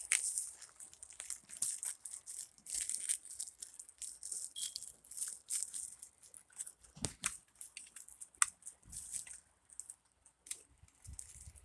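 Irregular rustling and crinkling with scattered light clicks.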